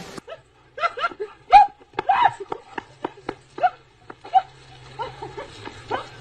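An animal's short, high-pitched calls, each rising and falling, coming irregularly a couple of times a second, with sharp clicks in between.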